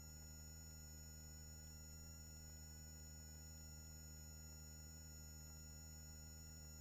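Near silence: a faint steady electrical hum made of several thin, unchanging tones.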